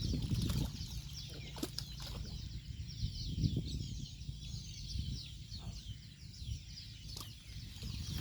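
Scattered knocks and rustling from handling the catch, over a steady, high-pitched chirping that repeats rapidly and never lets up.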